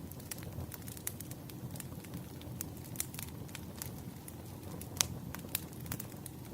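Burning firewood crackling: a steady low rumble of flames with frequent irregular sharp pops and snaps, the loudest pop about five seconds in.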